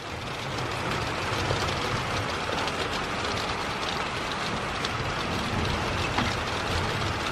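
Steady moderate rain falling, an even hiss, with a faint low rumble underneath.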